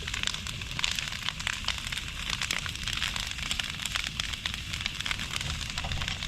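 Large bonfire of wood and cardboard burning, with dense continuous crackling and popping over a steady low rumble.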